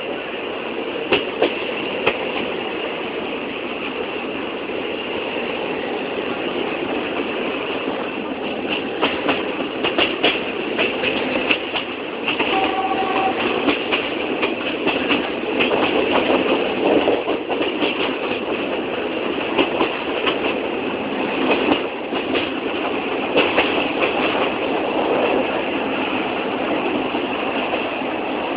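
A train running along the track: a steady rattling rumble with many irregular clanks and clicks from the wheels and carriages. A brief tone sounds about twelve and a half seconds in.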